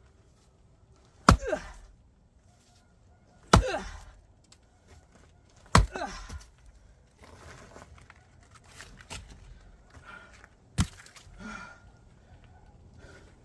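Axe splitting firewood rounds: four sharp chops, the first three about two seconds apart and the last a few seconds later, each followed by a brief crack of the wood.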